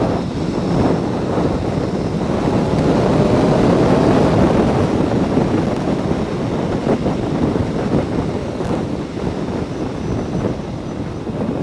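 Yamaha R1 inline-four sport bike being ridden, its engine note half buried under heavy wind rush on the microphone, with the engine pitch rising a little over the first few seconds.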